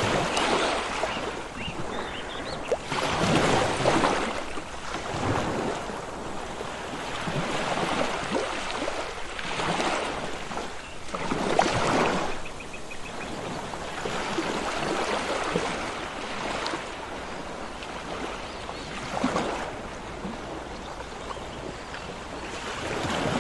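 Sea surf: waves breaking and washing in one after another, the noise swelling and falling away every few seconds.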